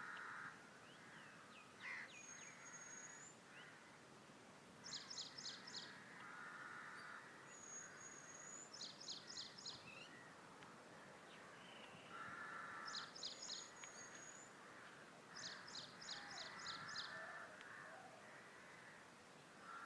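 Faint birdsong: several bursts of four to six rapid high notes, with a few thin high whistles between them.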